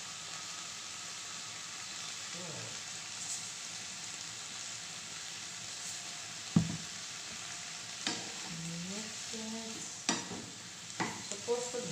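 Cabbage and mixed vegetables sizzling steadily in a nonstick frying pan over a gas flame, with one sharp knock about six and a half seconds in. Near the end a spatula stirs the vegetables, with a few clicks against the pan.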